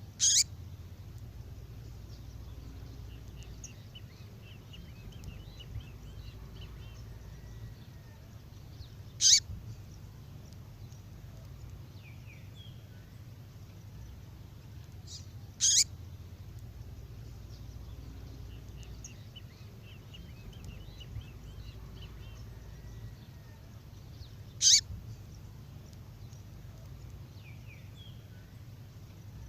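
A songbird's female call, a short sharp call heard four times several seconds apart, with faint twittering between the calls and a low steady hum underneath. It is a call used to lure male birds.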